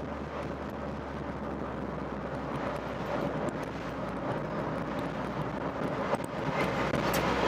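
Rover Metro's 1.8 K-series VVC engine and road noise heard from inside the car on the move: a steady running drone that grows slightly louder near the end.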